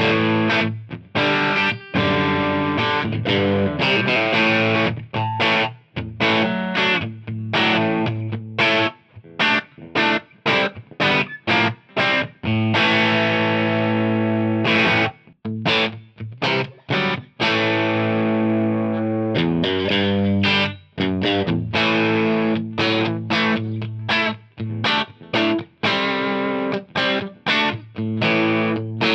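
Electric guitar with a distorted tone, played through a Wampler Ego 76 mini compressor pedal in a demo. It plays mostly short, chopped chords, with a few chords left to ring out about halfway through.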